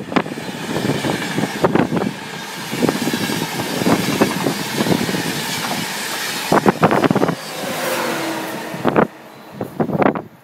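A train running through the station, its wheels knocking over rail joints and points in an irregular series of clatters over a steady rumble. The sound drops away near the end.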